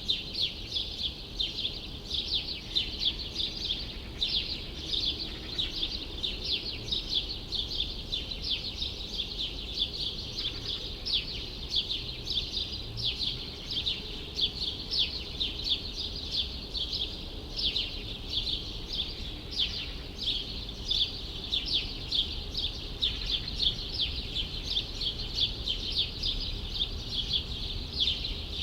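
Many small birds chirping in quick, overlapping short notes without pause, over a steady low rumble of city background noise.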